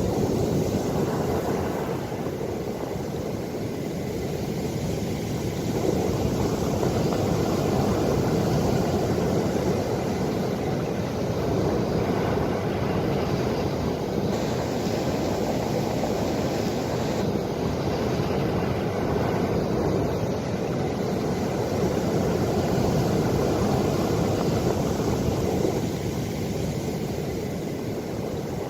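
Ocean waves: a steady, low rushing surf that swells slowly and eases again, with no distinct breaks.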